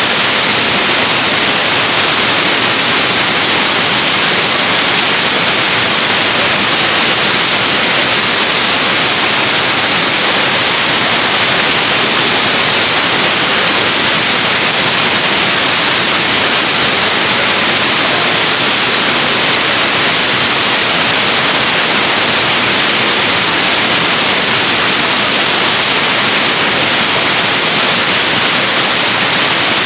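Waterfall: a loud, steady rush of falling water with a strong hiss and no change in level.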